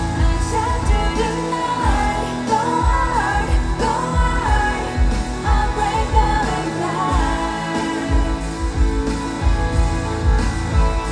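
K-pop song sung by a woman over a heavy, pulsing bass beat, played loud over a concert sound system.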